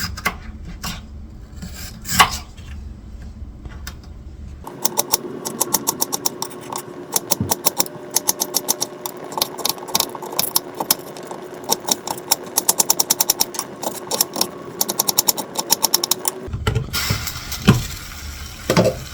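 Knife dicing potatoes on a cutting board: a few separate cuts, then about twelve seconds of quick, rapid chopping strokes over a steady hum, then a few single cuts again.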